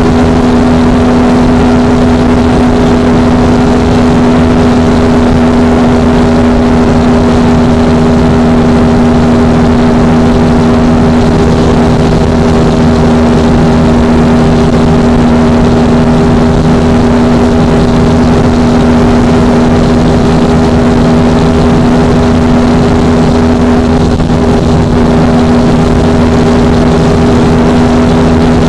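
Yamaha R15 V3's 155 cc single-cylinder engine running hard at high, constant revs, its pitch held steady as the bike cruises flat out near top speed, over a steady rushing noise.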